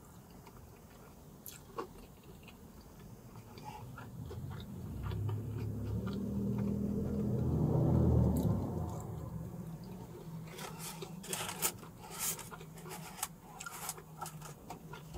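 Close mouth sounds of someone biting and chewing an empanada, with small sharp clicks that come thickest in the last few seconds. A low rumble swells up and fades away in the middle, the loudest sound here.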